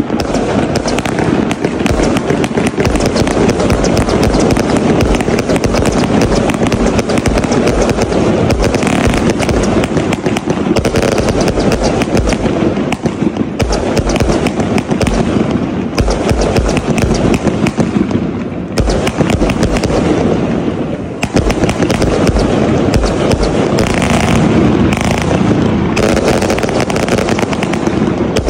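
Tiger Frenzy 320-shot firework cake firing in a rapid, unbroken barrage of tube launches and aerial bursts, thinning briefly about two-thirds through before picking up again.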